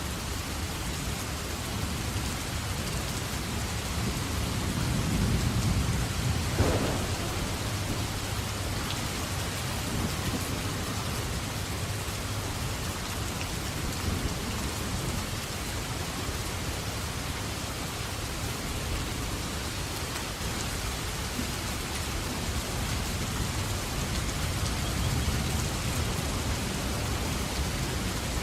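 Steady rain falling in a thunderstorm, with a low rumble of thunder swelling about five seconds in and a sharp crack just after it.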